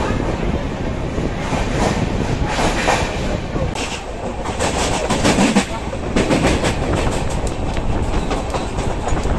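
Passenger train running, heard from an open coach door: a steady rush of rolling noise, with the wheels clattering rapidly over rail joints from about four seconds in.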